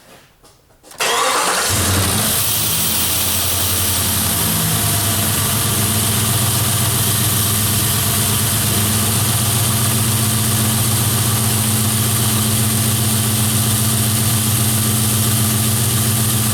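Jeep/Dodge PowerTech 4.7 V8 starting about a second in, catching immediately and settling into a steady idle: its first start after a timing chain replacement, firing right off.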